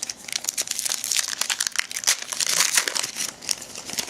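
A trading-card pack's foil wrapper being torn open and crinkled by hand, a busy crackling that is loudest in the middle and dies down near the end.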